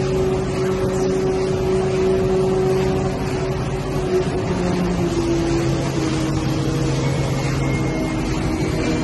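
Corrugated cardboard sheet production line machinery running: a steady mechanical hum with several held tones that shift in pitch a few times.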